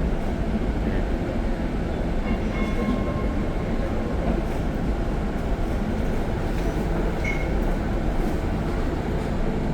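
Steady low rumble of a tram running, heard from inside the passenger car.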